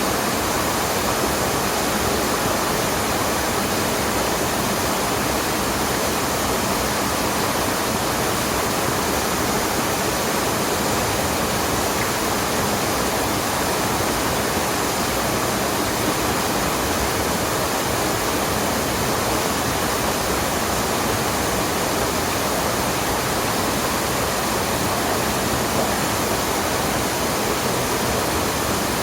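Water rushing steadily in a mountain stream and waterfall, a constant even roar.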